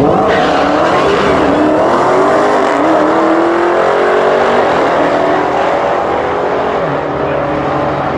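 Drag-racing muscle cars launching at full throttle. Their engines rev up, drop in pitch at the gear changes and climb again.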